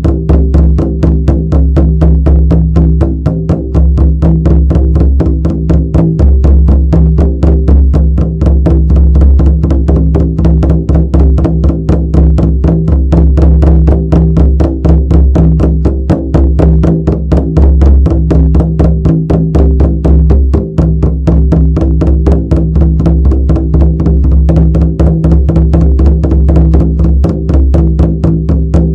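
Shamanic frame drum beaten in a fast, steady, even rhythm of about four to five strokes a second, its low ringing tone sustained between strokes.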